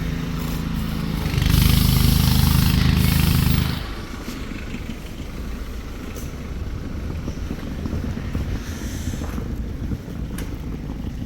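Car engine running in a garage. About a second in it gets much louder for a couple of seconds, then drops back to a low rumble.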